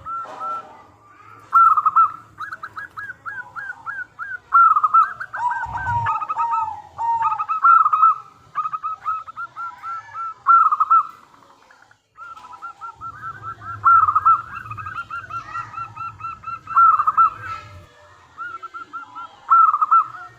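Zebra doves (perkutut) cooing: repeated phrases of rapid staccato coos, with more than one bird overlapping. The sound cuts out briefly a little past halfway.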